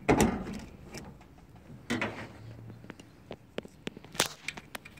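Scattered handling clicks and knocks as a new water inlet valve is fitted into a washing machine. The loudest knock comes about four seconds in.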